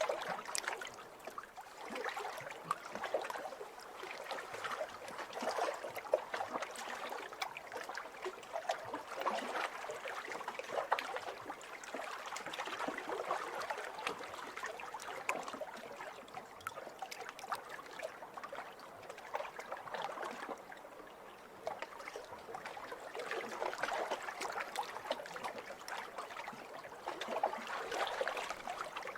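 Small waves lapping on a pebble shore: water washing in and draining back over the stones, swelling and easing every few seconds, with many small clicks and trickles.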